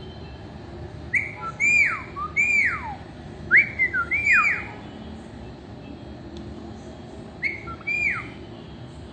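A pet parrot whistling: groups of short, clear notes that rise briefly and then sweep steeply down in pitch. One group comes about a second in, another around four seconds, and two more notes near the end.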